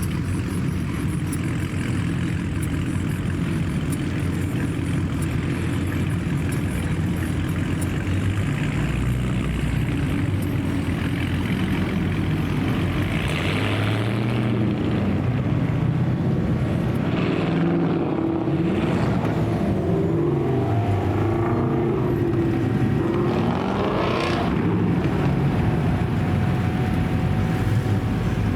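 Car engines running, with the engine pitch swooping down and up several times in the second half, along with rushes of exhaust noise.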